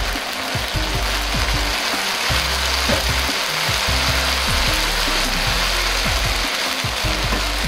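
Mapo eggplant sizzling in a wok: a steady, dense sizzle of sauce and oil, with background music that has a low beat underneath.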